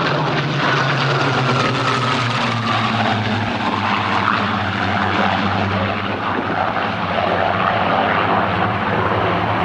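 Piston-engined propeller aircraft flying past, a steady engine drone whose pitch drops slightly in the first few seconds.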